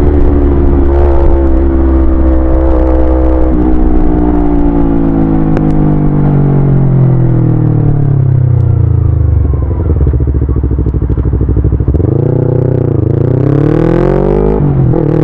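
Yamaha YZF-R25's parallel-twin engine and exhaust as the motorcycle slows: the engine note falls steadily for about ten seconds, with a few short steps along the way. It then runs low for a couple of seconds before the revs jump, dip and climb again as it pulls away.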